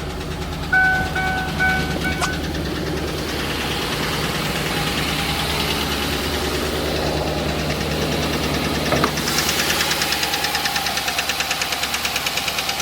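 Chevrolet Suburban V8 idling with a rhythmic lifter tick from a failed DOD (cylinder-deactivation) lifter, a fault that is also making the engine misfire. A vehicle warning chime beeps a few times at the start, and about nine seconds in the ticking becomes louder and more distinct.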